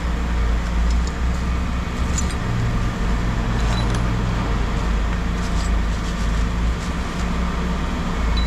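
An engine running steadily, with a few light metal clinks.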